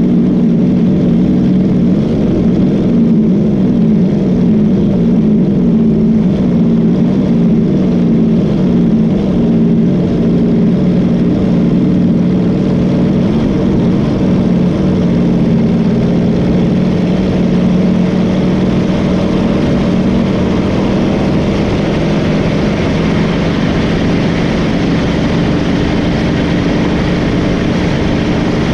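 Boat engine running steadily at speed, a continuous drone whose pitch wavers slightly.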